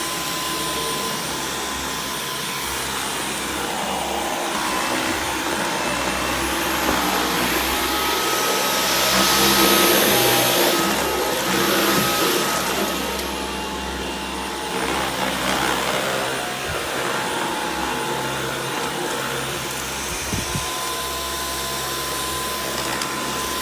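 Dyson V11 cordless stick vacuum running steadily with its motor whine and suction noise. Its high whine steps up in pitch for several seconds in the middle, with the sound at its loudest then, and drops back afterwards.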